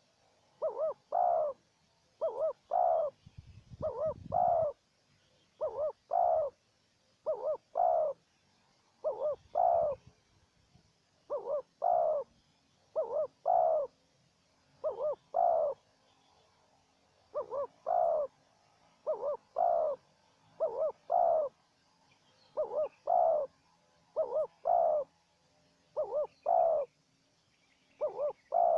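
Spotted doves cooing: short phrases of two or three coos, repeated every second or two. A brief low rumble comes about four seconds in.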